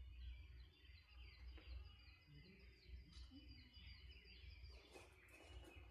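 Wild birds singing faintly: one repeats short high notes about three times a second through the middle, with other chirps around it. Under them is a steady low rumble, and there are a few sharp clicks near the end.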